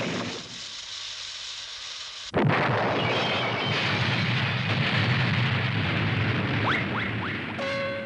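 Animated explosion sound effect: a blast fades away over the first second or so, then a sudden, louder second blast comes about two and a half seconds in and rumbles on for several seconds. A short tone starts right at the end.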